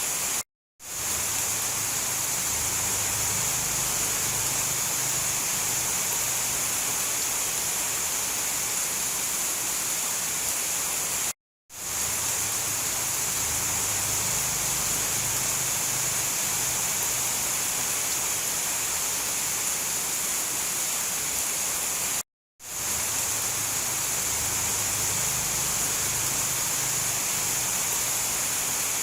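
Steady heavy rain falling, a dense even hiss with a low rumble underneath. It cuts out to silence for a split second three times, about eleven seconds apart, and fades back in each time: the seams of a short looped recording.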